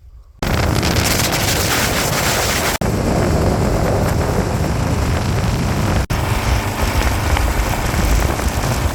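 Heavy wind rush buffeting the microphone on a motorcycle at speed, a loud steady roar. It starts abruptly just after the beginning and cuts out for an instant twice.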